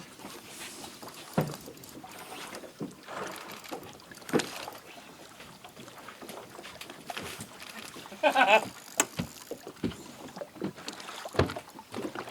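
Scattered knocks and bumps on a kayak and its gear while a hooked cobia is handled at the side. About eight seconds in there is a short wavering vocal cry.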